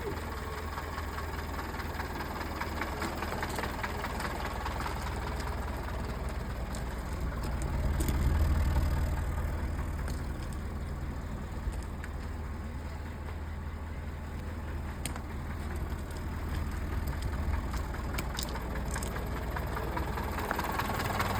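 1957 Land Rover Series 1 88-inch engine idling steadily. It briefly gets louder about eight seconds in.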